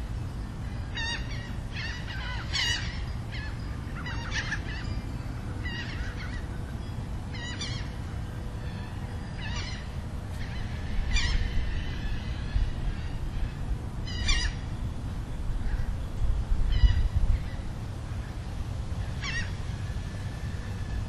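Birds calling: short calls repeated every second or two, over a steady low rumble that grows louder about halfway through.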